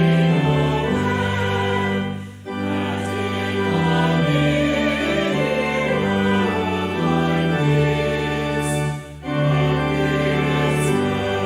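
A choir singing a slow piece with instrumental accompaniment, in long held notes that break off briefly twice between phrases.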